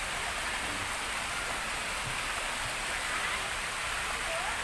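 Waterfall water falling and splashing in a steady, even rush, with faint voices of other visitors behind it.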